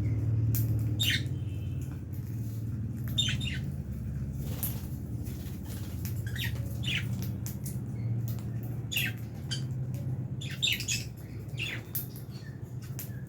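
A flock of lovebirds, albino masked and Fischer's, giving short, sharp squawks and chirps at irregular intervals, over a steady low hum.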